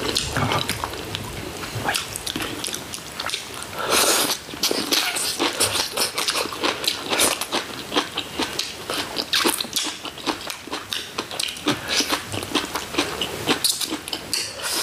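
Close-up eating sounds: people chewing and biting into braised chicken, a busy run of short crunches and mouth clicks, several a second.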